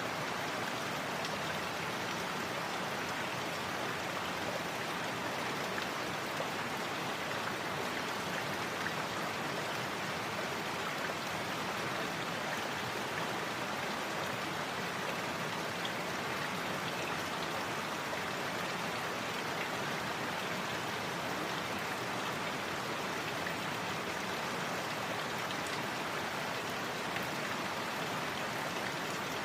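Steady, even rushing of water, unchanging throughout, with no distinct separate events.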